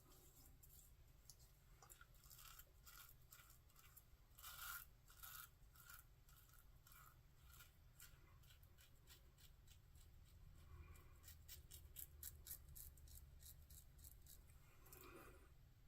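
Faint, quick scraping strokes of a Merkur 34C double-edge safety razor with an Astra blade cutting through stubble, in short clusters with a denser run of rapid strokes about two thirds of the way in.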